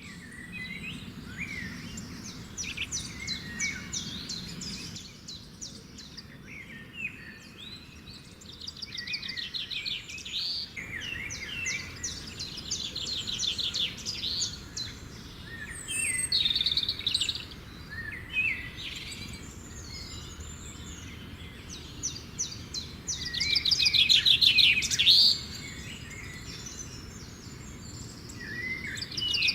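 Several birds singing and calling, with fast trills and short chirps overlapping, louder at times in brief spells.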